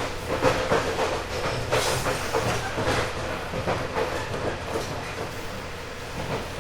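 Running sound heard inside a JNR 189-series electric motor car (MoHa 189, MT54 traction motors, resistance control): steady rolling noise from the wheels, with irregular clacks as they cross rail joints and a faint steady hum under it.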